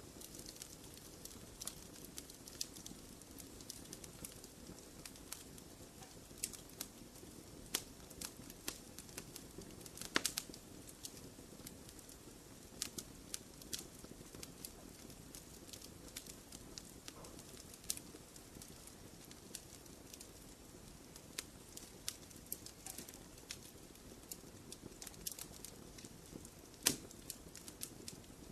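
Wood fire in a fireplace crackling: irregular sharp pops and snaps over a soft low rumble, with louder pops about ten seconds in and near the end.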